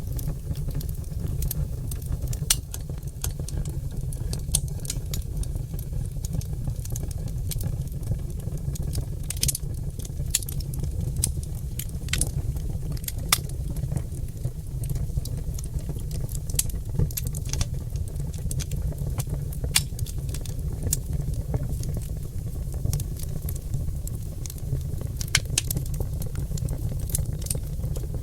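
Oak log fire in a fireplace crackling and popping: many irregular sharp snaps over a steady low rumble.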